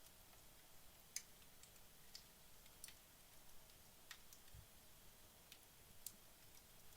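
Wood logs in a fireplace burning low: faint, sparse crackles, about six sharp ticks spread over the seconds, with a soft low thump about four and a half seconds in.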